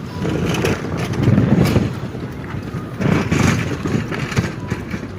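Outdoor street noise with wind rumbling on the microphone in three gusts.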